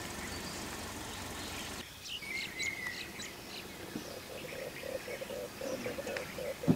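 Forest birds calling: high chirps and a short falling whistle, then a low note repeated about four times a second toward the end. A steady noise haze underneath drops away about two seconds in, and a single short low thump comes near the end.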